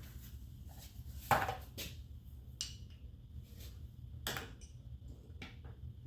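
Hand tools and metal parts clinking and knocking during disassembly work: a handful of separate sharp clanks, the loudest about a second in, over a steady low hum.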